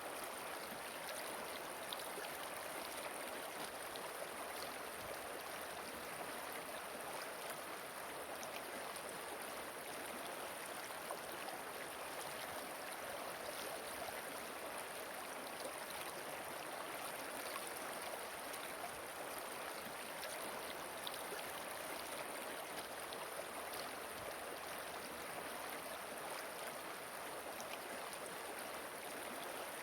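Gentle river flowing: a steady, even rush of water with faint scattered splashes.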